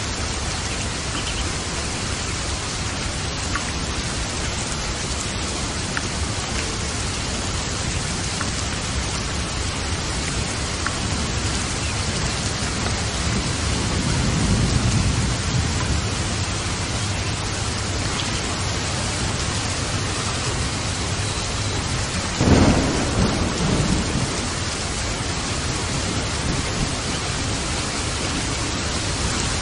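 Steady rain with thunder: a low rumble of thunder swells about halfway through, and a sharper thunderclap breaks about three-quarters of the way in, rumbling away over a couple of seconds.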